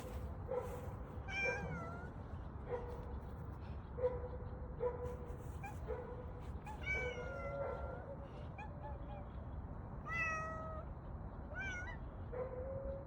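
A cat meowing about four times, each meow bending in pitch.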